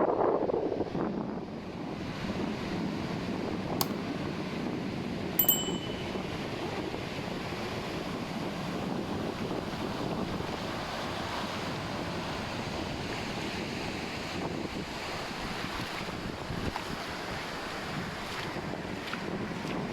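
Surf washing onto a sandy beach, a steady rushing wash with wind buffeting the microphone, louder in the first second and a half. A brief high tone sounds about five and a half seconds in.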